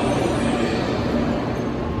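Train running past with a steady rolling noise of wheels on rails, with faint squealing tones dying away near the start.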